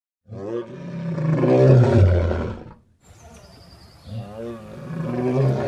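Lion roaring: two long, deep roars, the first starting just after the start and dropping in pitch as it ends, the second beginning around four seconds in.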